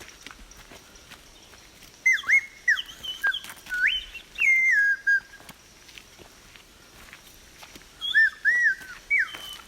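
Clear whistled notes in two phrases, the first about two seconds in and the second near the end. The notes glide up and down, with some held steady for about half a second.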